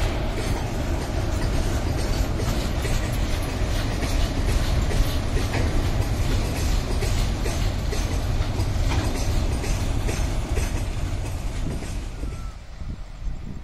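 Freight train of covered wagons rolling past at close range: a steady rumble of steel wheels with a rhythmic clickety-clack over the rail joints. Near the end the sound drops abruptly to a much quieter background.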